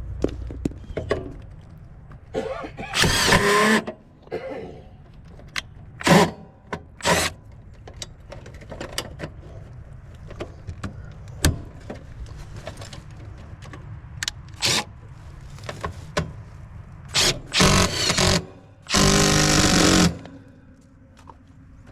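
Tools and parts being handled: scattered clicks and knocks with several short rustling, scraping bursts, the loudest lasting about a second near the end.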